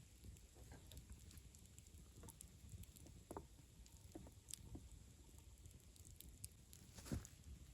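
Faint, scattered crackles and light clicks at irregular intervals over a low rumble, with the sharpest click near the end.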